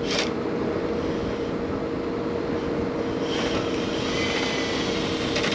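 A motor running steadily with a pitched hum, with some light rattling and scraping about three seconds in.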